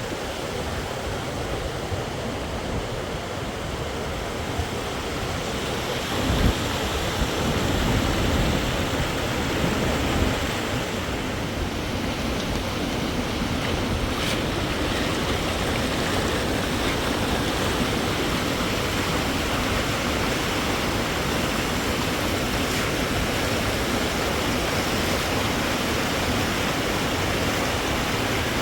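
Steady rushing of flowing water, a stream or river, with a brief low thump about six and a half seconds in.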